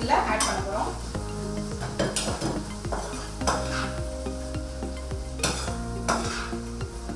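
Metal spatula stirring and scraping prawn masala around a nonstick kadai over a gas flame, in irregular strokes, while the gravy sizzles in the pan.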